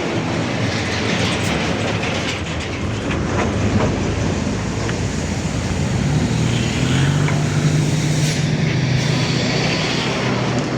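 Heavy truck engine running amid road noise, its low drone growing louder about six seconds in.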